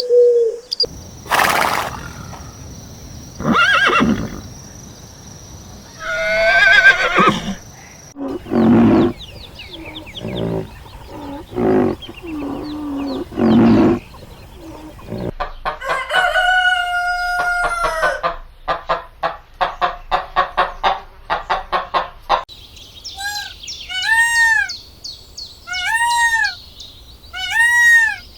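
Chickens calling: a rooster crows once and hens cluck in short calls, followed by rapid pulsing calls and, near the end, four arched bird calls about a second apart.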